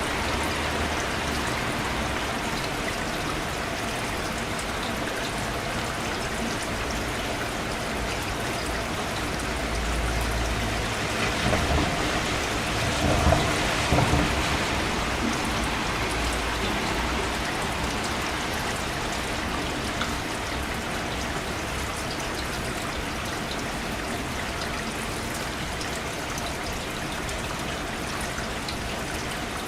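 Steady rain falling, an even hiss of drops. Around the middle a low rumble swells for several seconds with a few louder peaks, then fades back into the rain.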